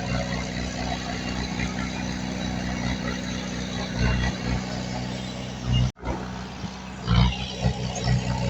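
Heavy diesel earthmoving machinery running at a steady low drone, swelling under load now and then, with a brief sudden dropout about six seconds in.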